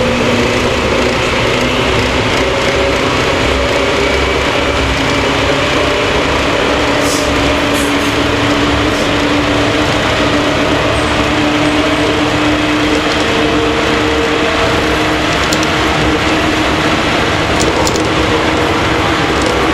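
JR 115 series electric train heard from inside the motor car KuMoHa 115: the traction motors whine, their pitch climbing slowly as the train gathers speed, over steady wheel and rail running noise with a few faint clicks.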